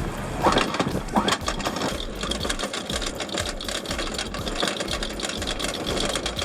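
A small outboard engine running steadily, a fast even clatter.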